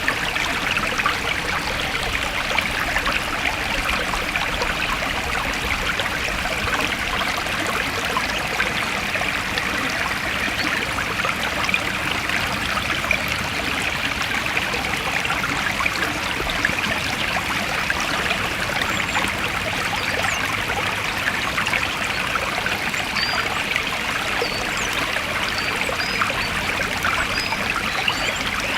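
A stream of water running and trickling over stones, a steady bubbling rush. A few faint high chirps come in near the end.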